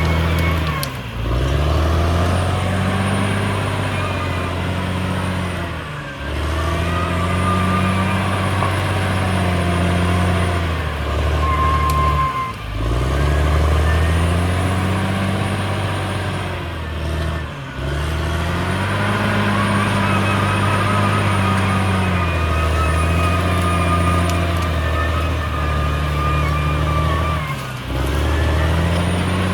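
CAT D6R XL bulldozer's diesel engine working hard. Its note sags and picks back up about five times, with a thin high whine coming and going over the top.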